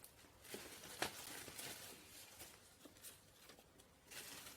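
Faint eating sounds: soft chewing and mouth noises with a few small clicks, the sharpest about a second in.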